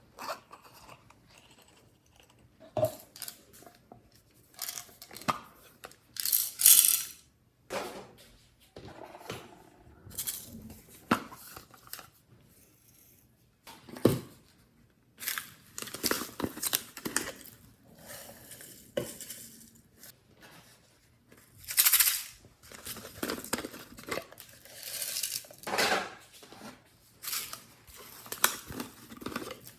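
Slime being mixed with a utensil in a container: irregular sticky squishing and crackling, with clicks and scrapes of the utensil against the container.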